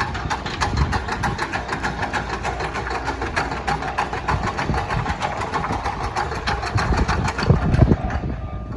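Train passing through a level crossing: a rapid, even clatter of wheels on the rails, with heavier low thumps about seven and a half seconds in.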